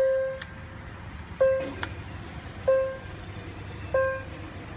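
Railway level-crossing warning bell ringing, one struck ding about every 1.3 seconds, each fading away, three strikes in all, over a low rumble of traffic.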